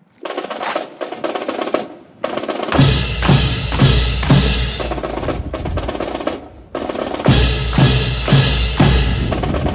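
Drums playing a cadence: snare drum rolls with heavy bass drum beats, dropping out briefly twice.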